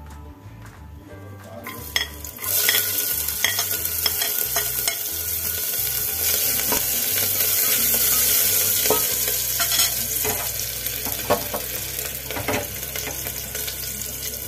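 Chopped garlic and green chillies sizzling in hot oil in a pressure cooker. The sizzle starts about two seconds in and grows loudest near the middle before easing. A spoon stirring them scrapes and knocks against the pot now and then.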